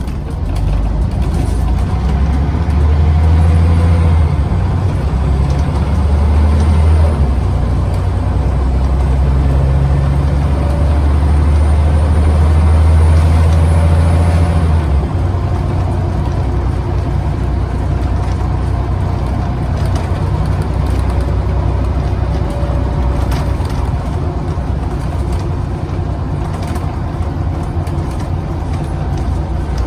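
Scania CN94UB OmniCity single-deck bus engine heard on board, pulling hard through its gears with a loud low drone that steps in pitch and a faint high whine rising above it. About halfway through the drone drops as the throttle eases, and the bus runs on more evenly.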